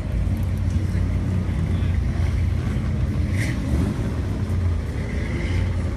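A car engine running steadily, a low, even sound, with faint voices of other people in the background.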